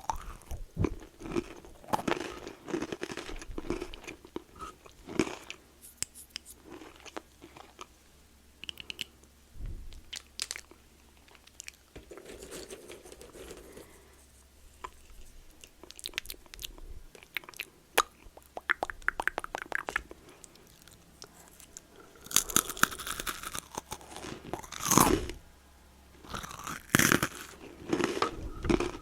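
Close-miked crunching and chewing of a crunchy snack, with sharp bites in clusters and a quieter stretch of softer chewing in the middle.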